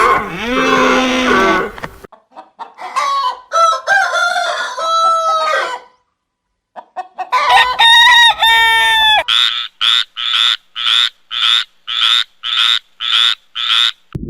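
Farmyard bird calls: a rooster crowing and hens clucking in a run of pitched calls, with a brief break about six seconds in. For the last five seconds a short call repeats about twice a second.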